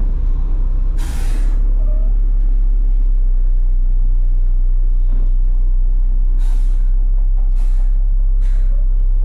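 Front-load garbage truck's diesel engine running steadily, heard from the cab, with a sharp hiss about a second in and a run of shorter hisses about a second apart near the end.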